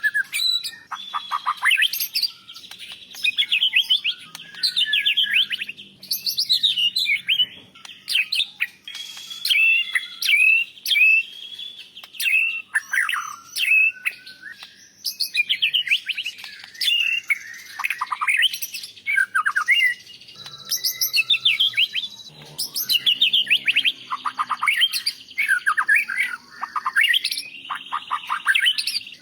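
White-rumped shama singing continuously in short, varied bursts of clear whistles, trills and rapid down-sweeping notes, each burst a second or two long with brief pauses between.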